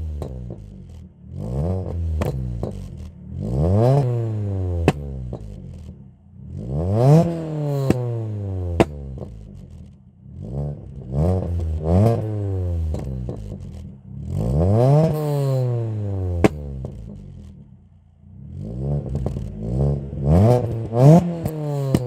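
Ford Fiesta ST150's 2.0-litre four-cylinder engine, breathing through a decat test pipe and Scorpion cat-back exhaust, revved in about seven sharp blips. Each rises quickly in pitch and falls away slowly, with sharp cracks from the exhaust as the revs drop.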